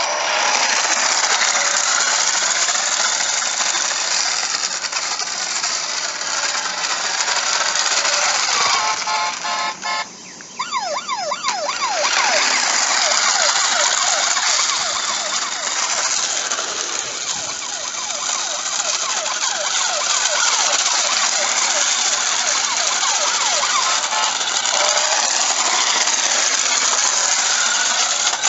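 Toy RC police car's electronic siren wailing continuously, its pitch sweeping up and down. About ten seconds in it drops out briefly and comes back with quicker sweeps.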